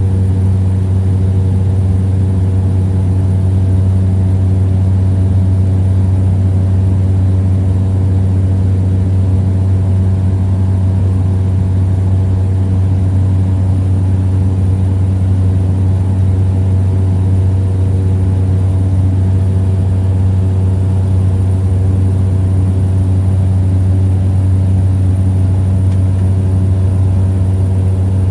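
Small plane's engine and propeller in flight, a loud, steady drone heard inside the cabin.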